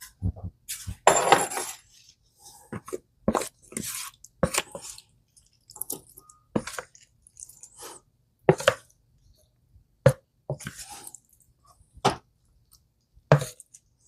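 A spoon scooping chicken salad and knocking against bowls: a series of irregular clicks and knocks, with a longer scrape about a second in.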